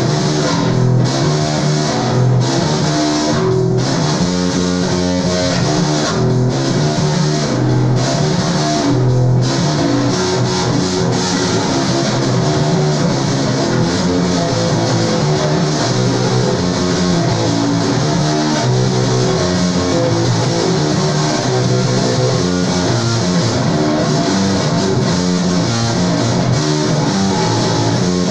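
Rock music on bass and guitar, with a busy line of changing bass notes running throughout.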